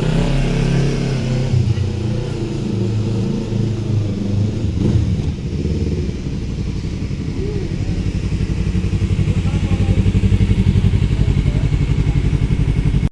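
Motorcycle engine running, with a low pulsing exhaust note that grows louder and more even over the last few seconds.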